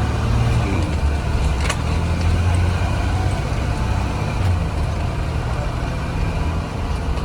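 A Blue Bird Vision school bus engine running steadily with a low hum, heard from inside the bus. There is a single short click about a second and a half in.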